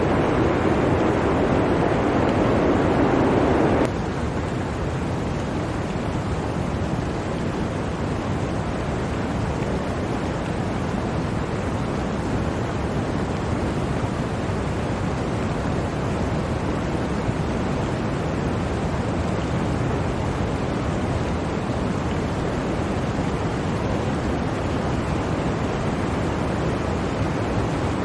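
Steady rush of blizzard wind. About four seconds in, a louder layer of the rush cuts off suddenly and the level drops, leaving an even, lower rush.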